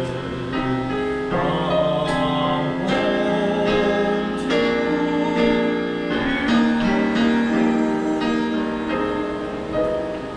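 Piano playing the closing instrumental bars of a slow ballad, chords struck about once a second and left to ring.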